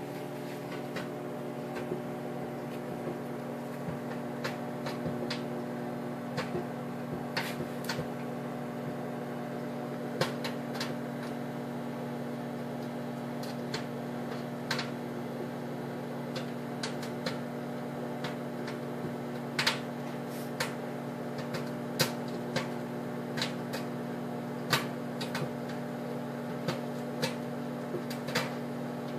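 Microwave oven humming steadily while strawberry popcorn kernels pop in a paper bag inside it, with single sharp pops scattered irregularly and coming more often in the second half as the popping gets going.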